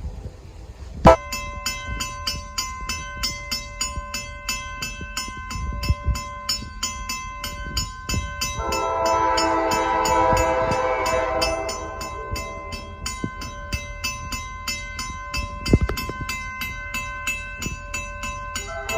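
A grade-crossing warning bell starts ringing about a second in, with a steady rapid beat. About eight and a half seconds in, the lead unit of an approaching freight train, the 803 road slug, sounds its air horn loud and clear for a few seconds before easing off.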